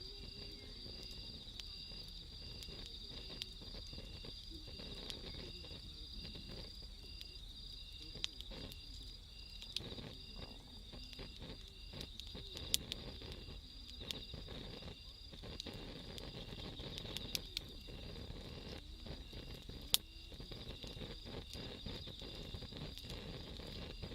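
Wood fire crackling with a low steady rustle and a few sharp pops, the loudest about twenty seconds in, over the continuous trilling and pulsing chirps of night insects.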